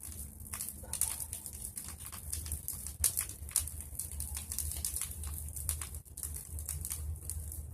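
Bonfire of pruned tree branches crackling, with many irregular sharp pops and snaps over a steady low rumble.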